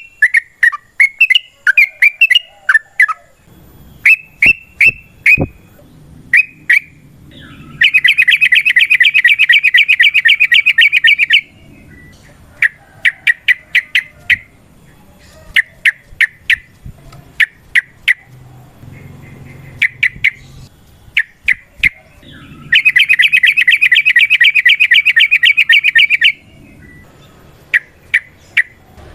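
Yellow-vented bulbul (trucuk) calling with short, sharp chirps. Twice it breaks into a long, very fast rattling trill of about three and a half seconds: the long 'ropel' chatter typical of a fired-up, territorial bird.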